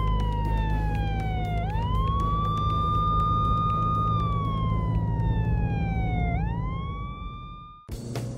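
Police siren: a tone that holds, slides slowly down, then sweeps quickly back up, twice, over a steady low hum. It fades out about eight seconds in.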